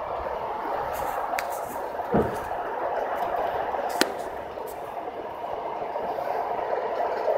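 Aeroexpress electric train running, heard from inside the carriage: a steady rumble with a knock about two seconds in and a sharp click about four seconds in.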